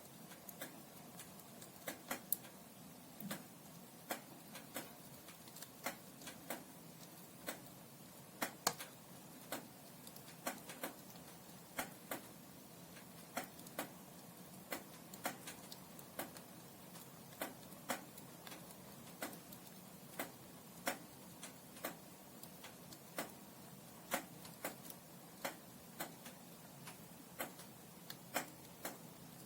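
Burning firewood crackling in a fireplace: frequent sharp, irregular pops and snaps, a few a second, over a faint steady hiss of the flames.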